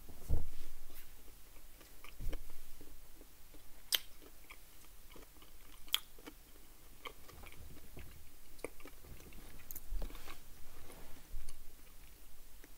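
Close chewing and biting of a Toblerone chocolate bar, with small irregular mouth clicks and crunches. It opens with a low thump, the loudest sound, and two sharp clicks come a couple of seconds apart near the middle.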